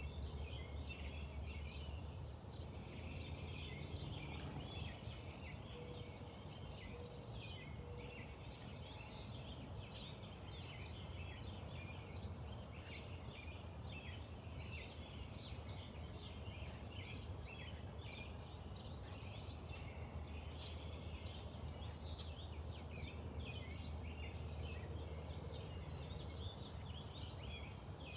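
Small birds chirping rapidly and continuously, many short high calls overlapping, over a steady low background rumble.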